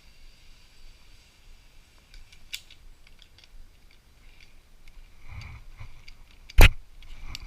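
Scattered light clicks and handling noise, with one sharp loud knock about six and a half seconds in.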